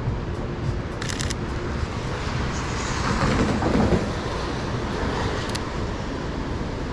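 City street traffic on a wet road: a steady rumble, with one vehicle swelling up and passing close about three to four seconds in. Short sharp clicks come about a second in and again near five and a half seconds.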